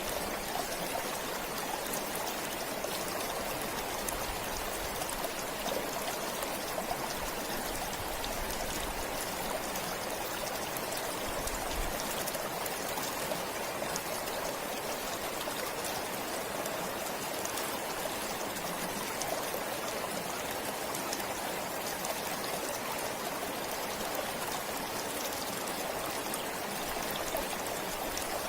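A forest stream running steadily, with a continuous rush of flowing water.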